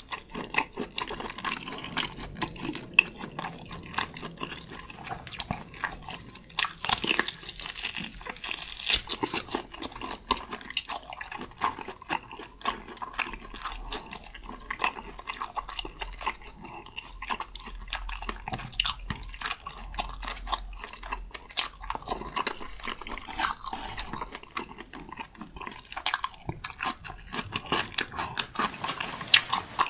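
Close-miked chewing of tomahawk steak: wet, sticky mouth sounds with many quick, irregular clicks.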